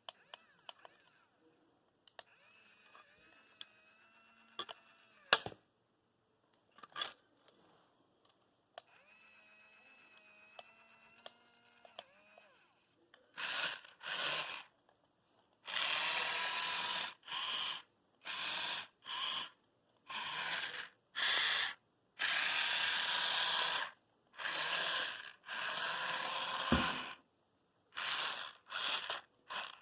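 Remote-control toy construction tractor running. Its small electric motors and plastic gears whir faintly at first, with a few clicks. About halfway through they start whirring loudly in short on-off bursts as the controls are pressed and released.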